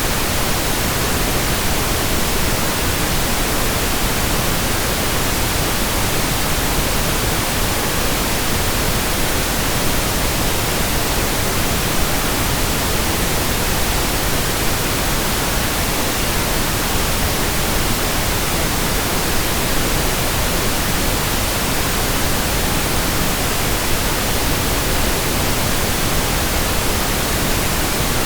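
Steady synthetic pink noise: an even hiss spread across all pitches, unchanging throughout.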